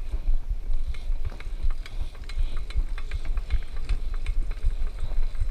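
Steady low wind rumble on the microphone, with many scattered light clicks and knocks.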